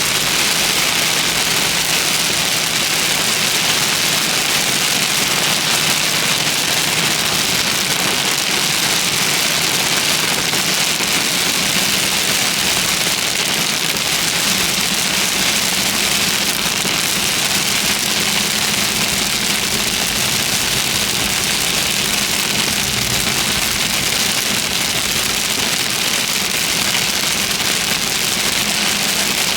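Steady hiss of heavy thunderstorm rain on a car, with a faint low engine hum underneath.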